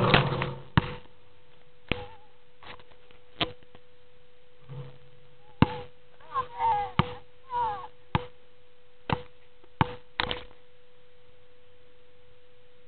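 Basketball bouncing on a court: about eight sharp single thuds at irregular intervals, over a steady high electronic hum.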